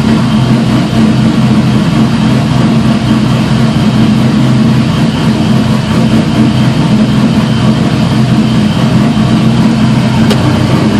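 1998 Camaro Z28's LS1 V8 idling steadily on a cold engine, shortly after its first start on a new tune.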